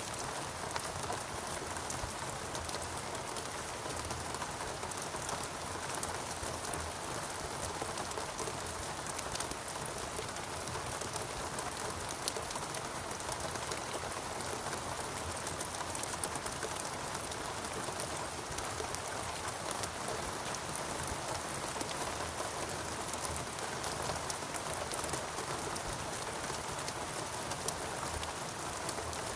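Steady rain falling in a rainforest, a dense even patter of many small drops hitting leaves and other surfaces.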